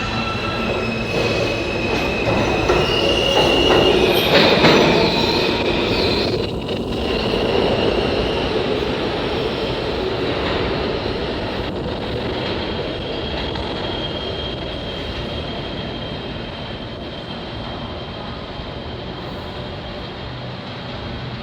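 New York City subway train running at the station, with high-pitched squealing in the first few seconds. It is loudest about four to five seconds in, then slowly fades away.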